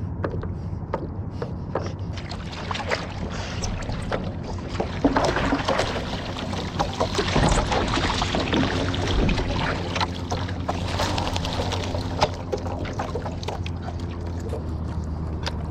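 Water splashing and sloshing, with knocks and scrabbling against the small paddle craft, as a dog climbs back aboard out of the water. The splashing is busiest in the middle, over a steady low hum.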